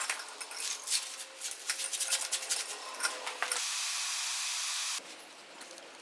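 Metal hardware and chain clinking and knocking as an anvil is fastened to its wooden stump, a quick run of clicks. About three and a half seconds in, a steady hiss starts abruptly and cuts off suddenly a second and a half later.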